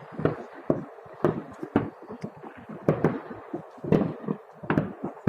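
Fireworks going off: an uneven run of sharp bangs, about two or three a second, each with a brief echo.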